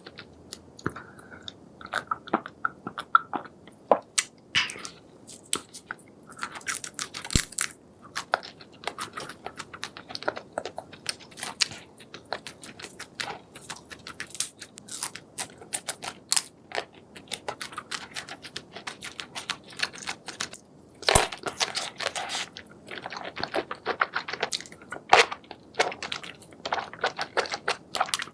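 Close-up chewing and crunching of seafood: many irregular crunches and wet clicks, with louder bursts of crunching now and then.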